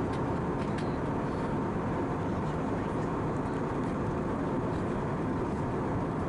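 Steady cabin noise of an Airbus A319-111 in flight: the constant rush of airflow and its CFM56 turbofan engines, with a faint steady tone above it.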